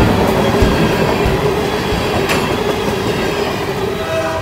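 Loaded-down rumble and clickety-clack of empty ethanol tank cars rolling past on a freight train, with sharp clicks as wheels cross rail joints. The sound slowly fades as the last cars go by.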